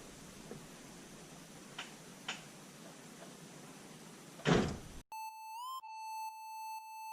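Faint hiss with a few light clicks, then a loud short burst about four and a half seconds in. The sound then cuts off to a steady synthesized electronic tone that chirps upward about every two seconds.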